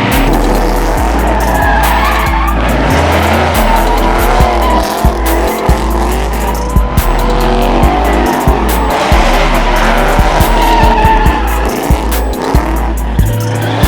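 Car tyres squealing in a long, continuous slide, wavering in pitch, over a hard-running car engine: a car spinning its rear wheels in a sideshow-style burnout or donut.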